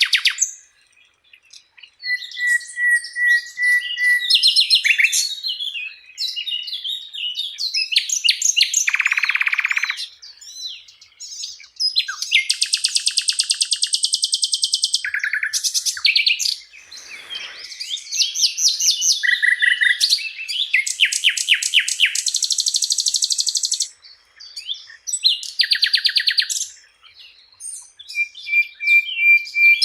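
Sikatan londo flycatcher singing a varied, high-pitched song of phrases separated by short pauses. The phrases include a steady held whistle, rapid trills, buzzy notes and fast runs of repeated chips.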